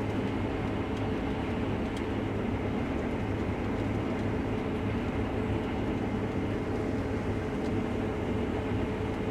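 Case IH Axial-Flow combine running steadily while harvesting wheat, heard from inside the cab: a constant engine and threshing drone with a steady low hum.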